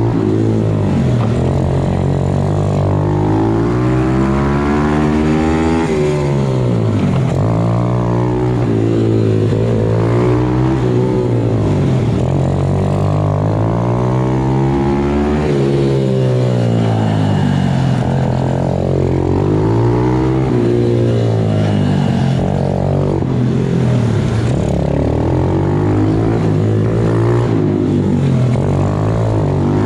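MRF 120 pit bike engine revving up and dropping back again and again as it is ridden through the corners of a tight track. The pitch climbs and falls about every two to four seconds.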